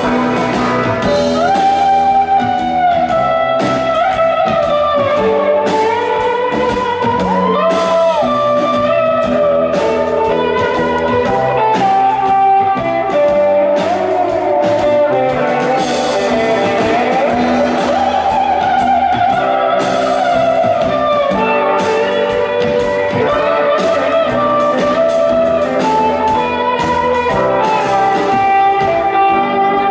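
Live band music: an instrumental passage of the song, with melodic lines that hold and glide in pitch and no sung words.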